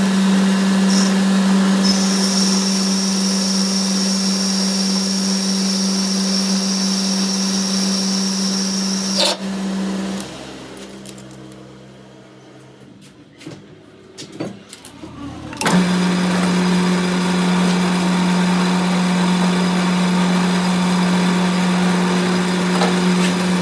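A workshop machine's electric motor running with a steady hum, joined for several seconds by a high whine. It shuts off about ten seconds in and winds down, with a few knocks while stopped, then starts again about sixteen seconds in and runs steadily.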